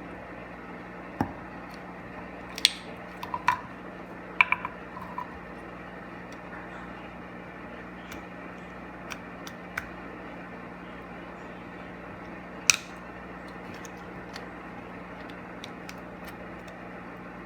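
Scattered sharp clicks and taps of screwdrivers against the plastic housing of a manual air-ride suspension switch being pried apart, a quick cluster in the first few seconds and a single louder click later, over a steady low hum.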